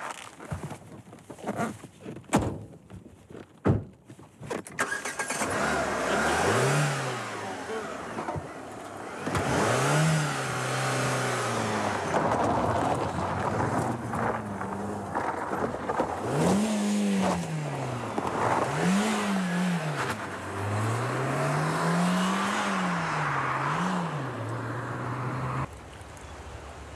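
Car doors slamming shut, then a Citroën C4 car engine revved hard: its pitch climbs and falls over and over as the car accelerates and brakes, with road noise. It drops away suddenly near the end.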